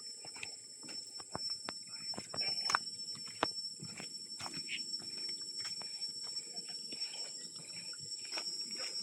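Rainforest ambience: a steady high-pitched insect drone, with scattered irregular clicks and rustles close by.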